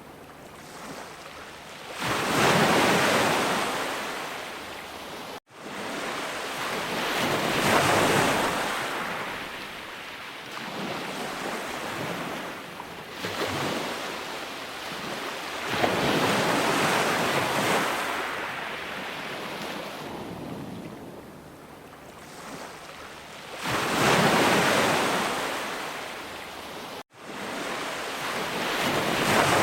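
Ocean waves breaking and washing ashore, each surge swelling and fading every several seconds. Twice there is a momentary cut to silence.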